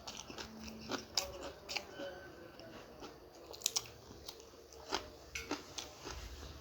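A person biting and chewing samosa and green chilli close to the microphone, with irregular crunching clicks.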